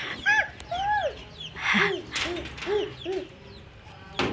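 Chickens clucking: a run of rounded, rise-and-fall calls, the first two higher and the next five lower, with faint high cheeping behind them and a few short rustling noises.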